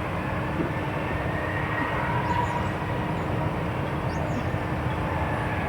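Jet airliner engines giving a steady rumble with a faint steady tone through it.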